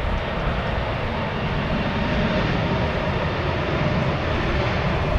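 Jet aircraft engines running with a steady whooshing noise, growing slightly louder about two seconds in, with wind buffeting the microphone.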